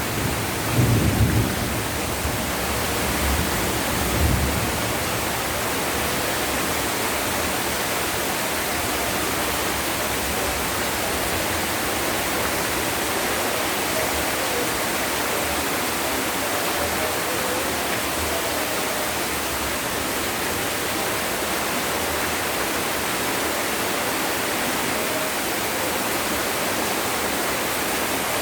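Heavy rain falling steadily in a dense, even hiss. Low rumbles of thunder sound about a second in and again around four seconds in, then die away under the rain.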